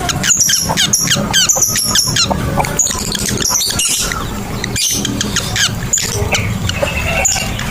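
Lovebird chattering (the long 'ngekek' call): a fast, continuous run of shrill chirps and squeaks, many a second.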